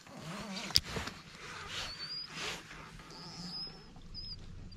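A small bird chirping faintly: a few short high whistled notes. Under it runs a low steady hum, and a sharp click comes about a second in.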